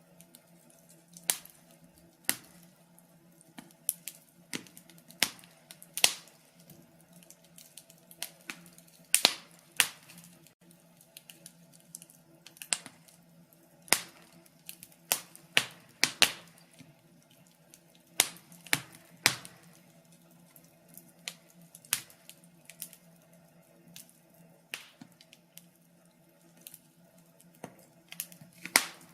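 Wood fire in a fireplace crackling, with sharp irregular pops about a second apart, some much louder than others.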